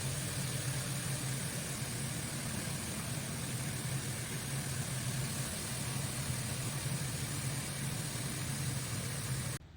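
Steady machine hum: a low, even drone over a broad hiss, cutting off abruptly near the end.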